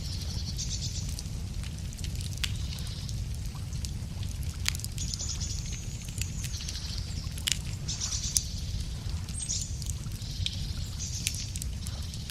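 Wood fire crackling, with scattered sharp pops over a steady low rumble. A songbird sings short high trilling phrases again and again, several in the stretch.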